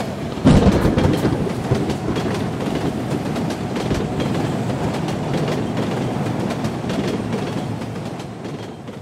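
Train sound effect: a railway carriage rolling along the track, its wheels clicking over the rail joints. It comes in suddenly about half a second in, holds steady, then fades away near the end.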